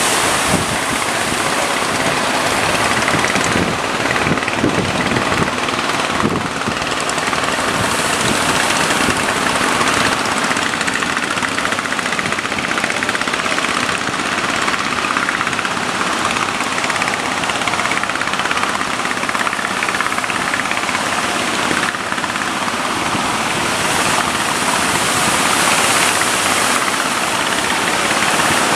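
Fishing boat engine running steadily, with wind and surf noise.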